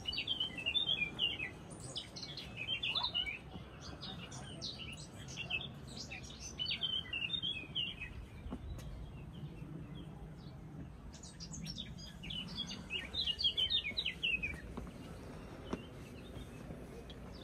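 Songbirds singing: quick, jumbled, high chirping phrases that come in several bursts separated by pauses, with the longest pause about halfway through.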